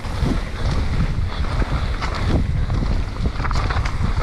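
Mountain bike riding down a muddy trail: wind rumbling on the camera microphone, with tyre noise and short knocks and rattles from the bike over rough ground.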